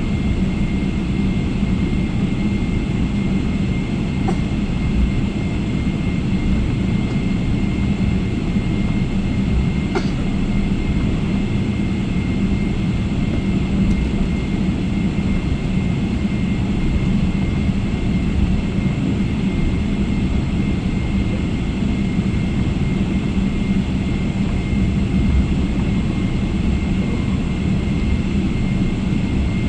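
Boeing 777 cabin noise: a steady jet-engine and airflow drone with a faint constant high whine on top. Two faint clicks come about 4 and 10 seconds in.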